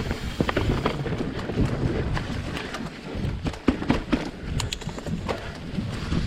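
Devinci Troy 29er mountain bike riding down a dirt trail: tyres rumbling over the ground, with frequent sharp clacks and rattles as the bike hits bumps.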